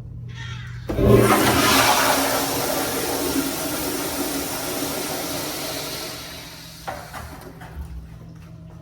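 Toilet flushing: a sudden rush of water starts about a second in, loudest at first and dying away over about six seconds.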